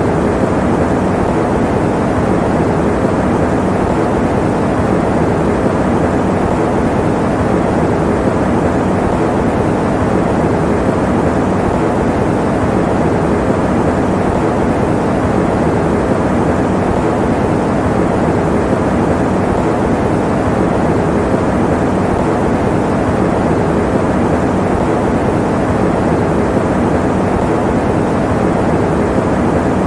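Electric fan running steadily: an even, low rush of air with no changes or breaks.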